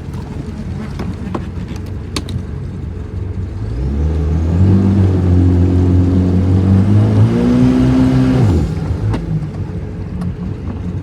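Boat engine running steadily, then speeding up louder for about four and a half seconds before easing back off.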